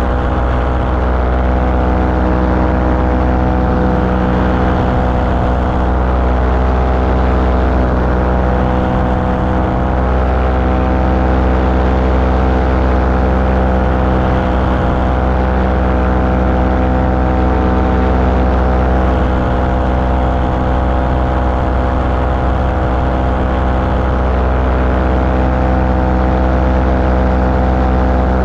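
Light aircraft engine running at a steady cruise power, heard from on board, with an even drone that holds one pitch throughout.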